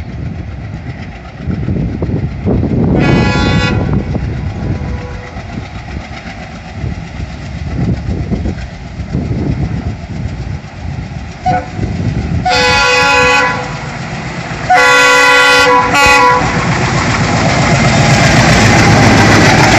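ALCO diesel locomotives approaching with a steady engine rumble and sounding the horn: one blast about 3 s in, a short toot near the middle, then two longer blasts, the second one broken. Near the end, the train passes close by with a loud, rising rush of wheel and rail noise.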